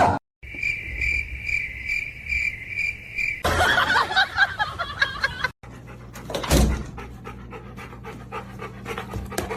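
A high-pitched trill pulsing about two to three times a second, then a dog panting.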